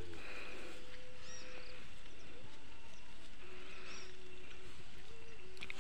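Steady light drizzle with a few faint bird chirps, and a sharp knock at the very end as a wooden beam is set down.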